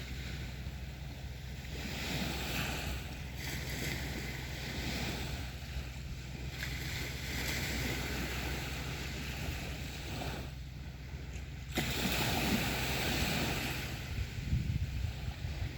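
Sea waves breaking and washing up on a beach, surging and easing every few seconds, with a brief lull and then a louder surge about twelve seconds in.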